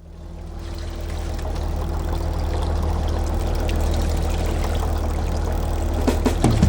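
A small fishing boat's engine running steadily with water rushing past the hull, fading in at the start. There are a few knocks near the end.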